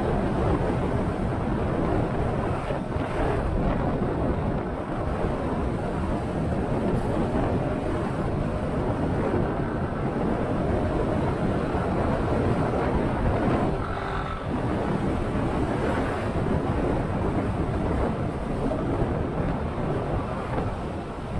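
Wind rushing over the microphone of a moving motorcycle, with the bike's engine and road noise under it, steady throughout.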